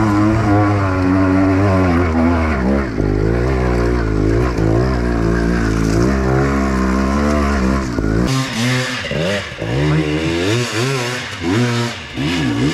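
Enduro dirt bike engine revving up and down as it is ridden off-road. About eight seconds in, the deep low note drops out and the revs rise and fall in quicker, shorter surges.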